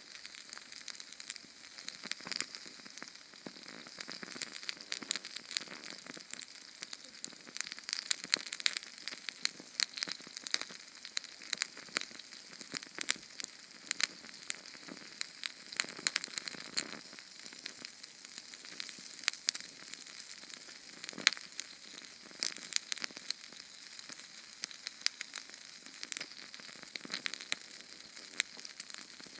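Small Sterno canned-fuel flame crackling: many quick, sharp snaps over a steady high hiss.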